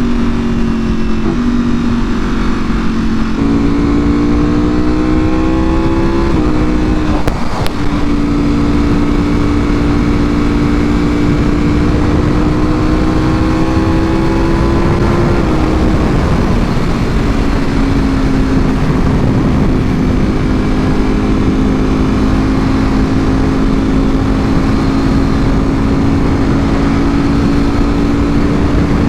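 Ducati Panigale V4R's V4 engine through an Akrapovič full exhaust, ridden at fairly steady revs: its note steps down and up with gear changes in the first few seconds, climbs slowly, drops about halfway through, then holds steady at cruise. Wind rushes over the microphone, and a brief click sounds about a quarter of the way in.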